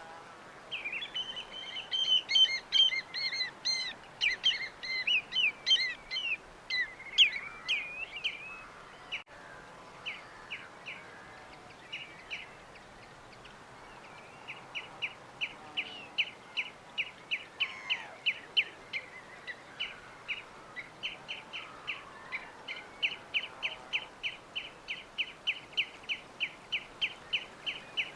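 Small birds chirping: a busy tangle of varied, fairly loud chirps during the first several seconds, then from about fifteen seconds in a long run of quick, evenly repeated short chirps, about two or three a second.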